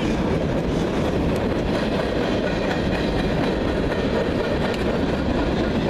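Freight train passing: a loud, steady rumble of wheels on the rails.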